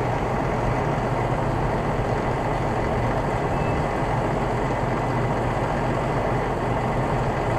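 Heavy truck engine idling steadily, a low even rumble.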